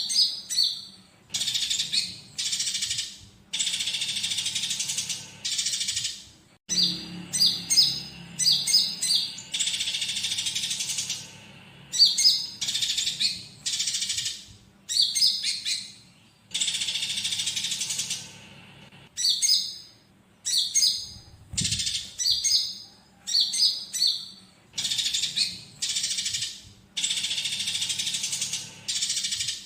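Sunbird (konin) song mixed with the squabbling chatter of fighting Eurasian tree sparrows: bursts of high, sharp chirps and dense trills about a second long, repeating with short gaps.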